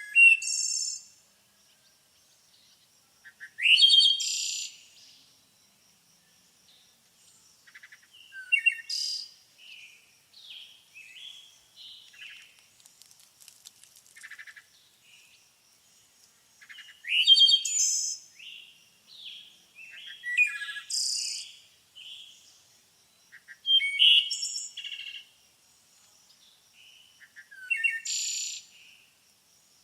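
Songbirds singing and calling: loud phrases of high chirps, whistles and rapid trills every few seconds, with quieter twittering between them and a faint steady high tone underneath.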